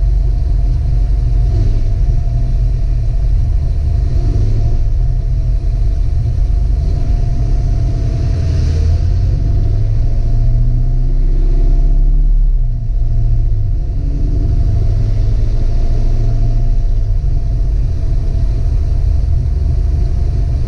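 1966 Ford Mustang driving at a steady pace: a loud, steady low rumble of engine and road noise, which dips briefly a little past the middle.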